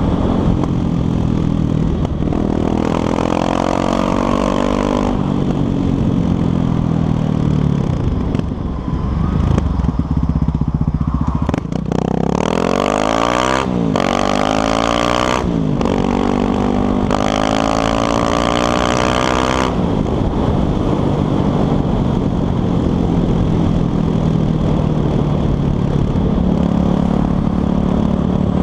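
Yamaha Lander 250 single-cylinder motorcycle engine under way, pulling up through the gears: the engine note climbs and drops back with each shift several times, then holds a steadier, lower note for the last third.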